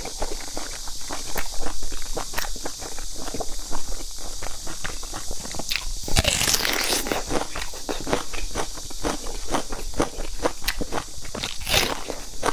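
Close-miked eating sounds of a person chewing and biting steamed dumplings: a steady run of small wet mouth clicks, with louder bites about six seconds in and again near the end.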